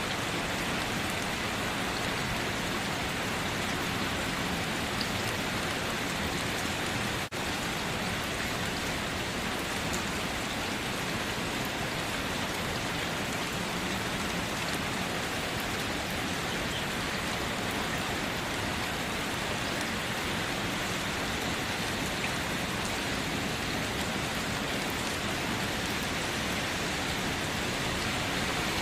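Steady rain falling in an even, unbroken hiss, with a split-second drop in level about seven seconds in.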